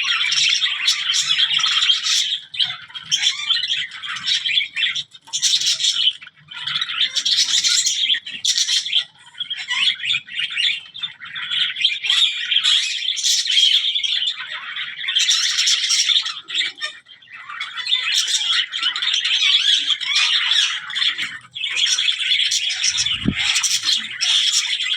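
A flock of zebra finches and budgies chirping and chattering together, many quick high calls overlapping almost without pause. A brief low bump sounds near the end.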